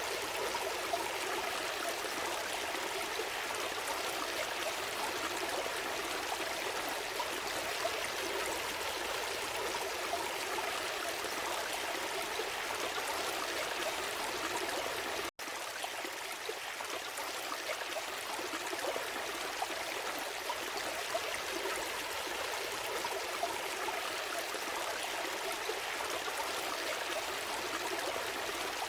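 Gentle stream flowing over stones, a steady babbling and trickling of water. About halfway through, the sound cuts out for a split second and then resumes.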